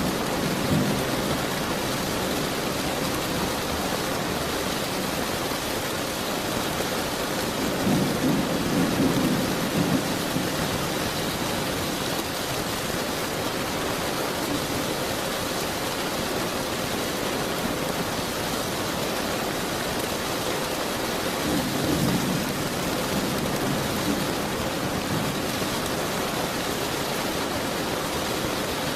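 Steady heavy rain falling, with low rolls of thunder rumbling under it right at the start, again about eight seconds in, and once more about twenty-two seconds in.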